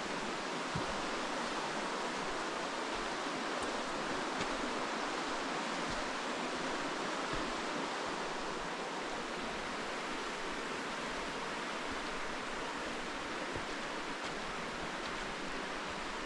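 Steady rushing of running water from a forest stream, even and unbroken, with a few soft footfalls on the trail.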